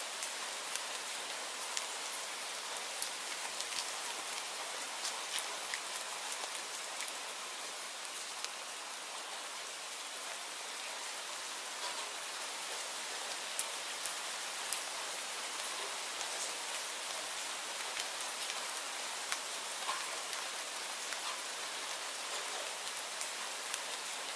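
Steady rainfall, a continuous even hiss dotted with scattered sharp ticks of individual drops striking a surface.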